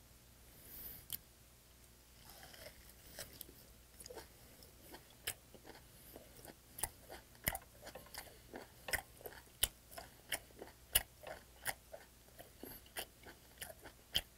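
Close-miked chewing of a piece of boiled sea hare: wet, sticky clicks of the mouth working the chewy flesh, settling into an even rhythm of about one and a half chews a second after the first couple of seconds.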